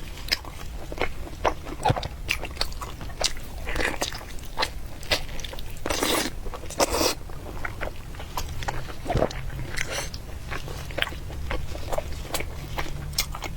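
Close-miked eating: chewing and biting with many quick wet clicks, and a few longer noisy bursts around the middle.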